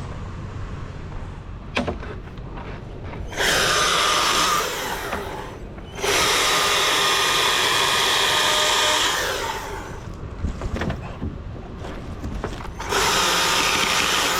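Chainsaw running at full throttle in three bursts, about two seconds, then about three seconds, then again near the end, dropping back to a quieter running sound in between.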